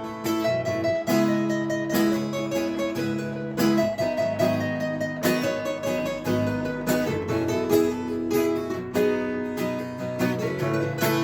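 Acoustic guitar strumming chords, played as instrumental music with no singing.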